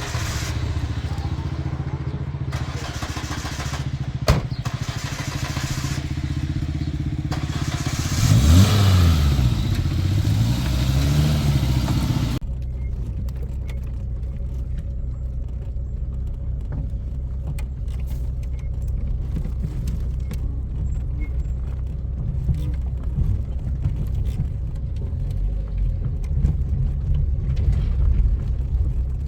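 A vehicle engine running with a steady low hum, with a sharp click about four seconds in. About a third of the way through, the engine note rises and falls, then settles into a duller, steady rumble.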